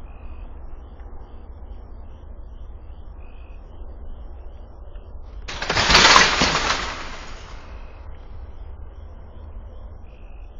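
A sudden loud rush of noise starts about halfway through and fades over about two seconds, over a low steady rumble and faint regular chirping.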